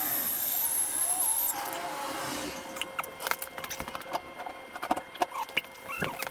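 A power tool runs with a high whine and hiss, then cuts off about a second and a half in. A scatter of sharp clicks and knocks follows.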